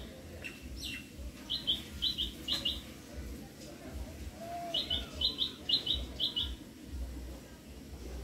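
A small bird chirping: a few short, high chirps about a second and a half in, then a quicker run of about six chirps a little past the middle, over a low rumble.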